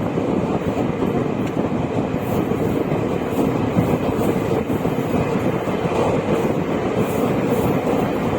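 Passenger express train running along the track: a steady rumble of the coaches' wheels on the rails, with faint light clicks recurring throughout.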